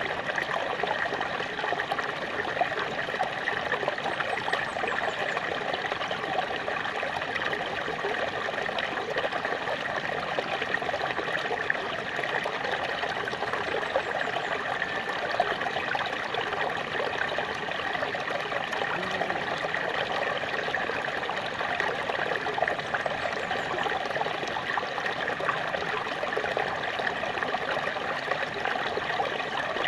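Small waterfall splashing and trickling steadily, an even, unbroken wash of running water.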